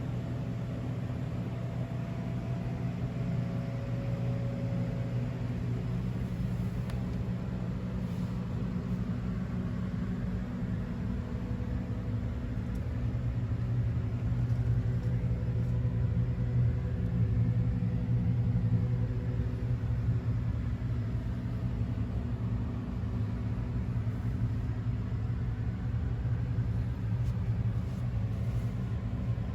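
Honda CX650 Turbo motorcycle's V-twin engine running steadily, a low even hum that gets a little louder about halfway through before settling again.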